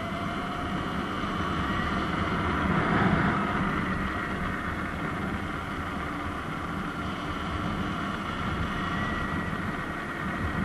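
Surron X Light Bee electric dirt bike being ridden: a thin motor whine that shifts slightly in pitch, over the rumble of tyres and wind.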